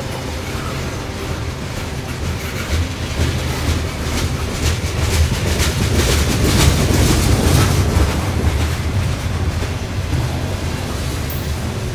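Freight train's tank cars and covered hopper cars rolling past close by: a steady low rumble of steel wheels on rail, with a run of clicks from the wheelsets that is loudest in the middle.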